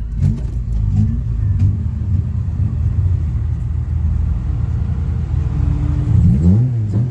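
Car engine pulling hard under acceleration, a loud steady drone whose pitch climbs steeply near the end as it revs up.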